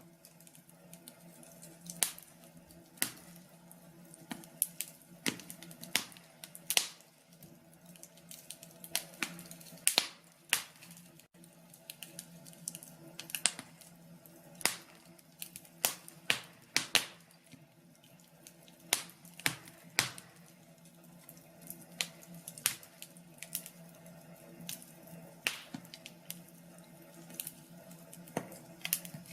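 Wood fire crackling in a fireplace: irregular sharp pops and snaps, several a second in clusters, over a faint steady low hum.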